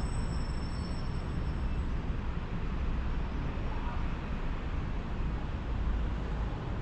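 Automatic car wash machinery running with a steady, even rumble and rushing noise, and a faint high whine in the first second or so.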